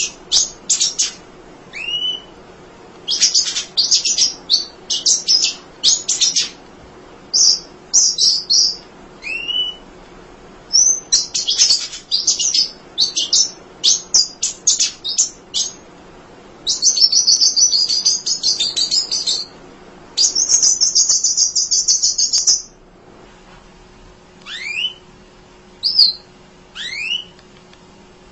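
Munia (emprit) singing continuously: rapid clusters of sharp, high chirps, then two longer buzzy trills of about two seconds each past the middle, and a few short rising whistles near the end.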